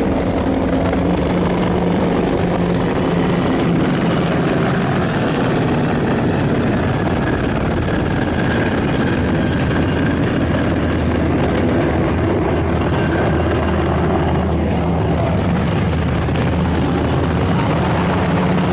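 Military helicopter flying overhead, its rotor blades and turbine engine making a loud, steady noise, with a slow shift in pitch in the first few seconds.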